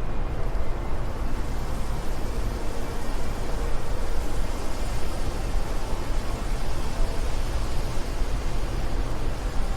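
Steady wind noise: a deep, even rumble with a hiss above it.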